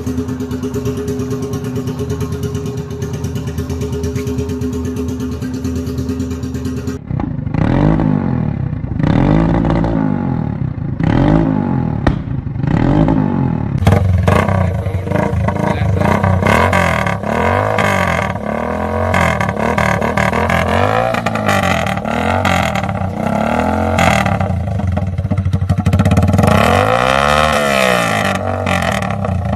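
Hero Splendor motorcycle's single-cylinder engine with a tractor-style silencer, running steadily at first, then revved up and back down again and again from about seven seconds in.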